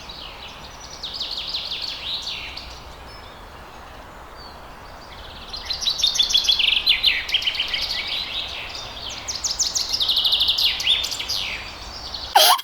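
Small birds chirping and trilling in rapid runs of high notes over a faint steady background hiss, busier in the second half. A sudden louder sound cuts in at the very end.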